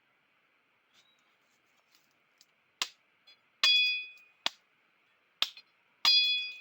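Hammer striking a nail into wood, five sharp blows a little under a second apart starting about halfway in, two of them ringing with a metallic ping that fades out. A faint steady hiss lies underneath.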